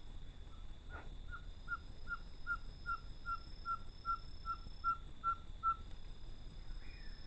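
A bird calling: a long series of about fourteen short whistled notes, each slurring slightly down, evenly spaced at about two and a half a second, stopping a little before six seconds in.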